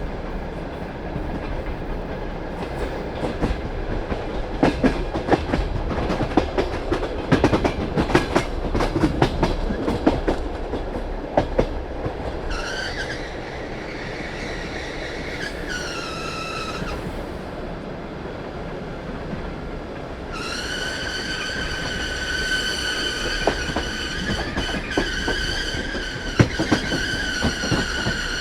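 Passenger train wheels clicking over rail joints, heard from inside a carriage. About halfway through, a high-pitched squeal starts, sliding down in pitch twice. It comes back as a steady high squeal for the last third, the sound of wheels or brakes squealing as the train slows.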